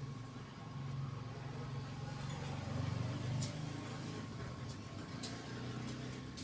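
Honda CRF dirt bike's single-cylinder four-stroke engine idling steadily, louder for a moment about three seconds in.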